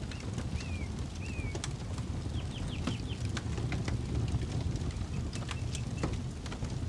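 Campfire crackling with scattered sharp pops over a steady low rumble. A bird chirps several times: short falling calls in the first second or so, then a quick run of notes a little later.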